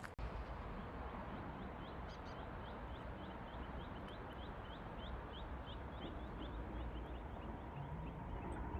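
A bird calling in a long run of short rising chirps, about three a second, that fade out near the end, over a steady outdoor background hiss.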